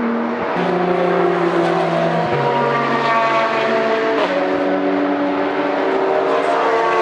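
Race car engines running on the circuit: several steady engine notes overlap, their pitch stepping up and down a few times, with one note falling about four seconds in.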